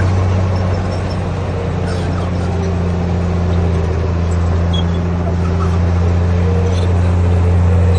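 A bulldozer's heavy diesel engine running steadily under load with a constant low hum.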